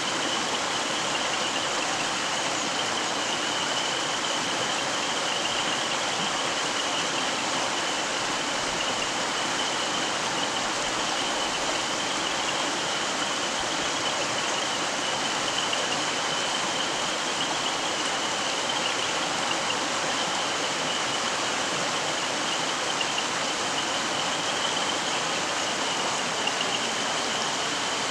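Mountain stream flowing: a steady, even rush of running water, with a thin high-pitched tone running through it.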